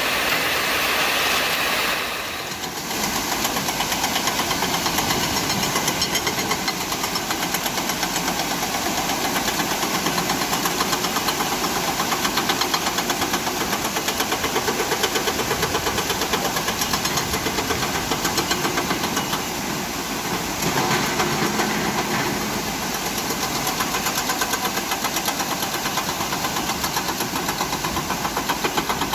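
Diesel engine of a concrete mixer truck running steadily with an even, fast pulsing knock.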